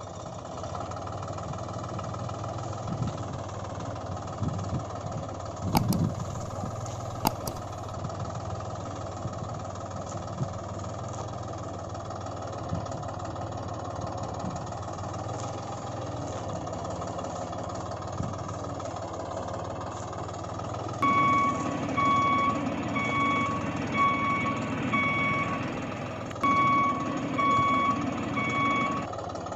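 Toy vehicle running with a steady engine-like hum, with two sharp clicks a few seconds in. About two-thirds of the way through, a reversing-style beep starts, about two beeps a second, with one short break before it goes on.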